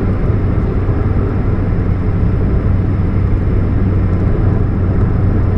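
2013 Chevrolet Spark running with a steady, deep hum over its engine and road noise, a hum put down to a leak at the catalytic converter.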